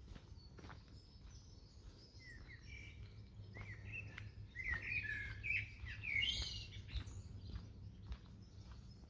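Songbirds singing and chirping in quick, varied phrases, building to a burst of song about five to seven seconds in.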